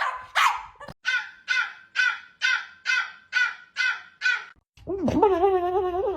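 A dog giving a run of about nine harsh, crow-like barks at about two a second, then breaking into a long wavering howl near the end.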